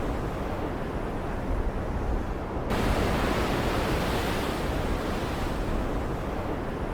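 Stormy ocean ambience: a steady rushing wash of surf and rain. Nearly three seconds in, the hiss surges abruptly as a wave breaks, then slowly fades.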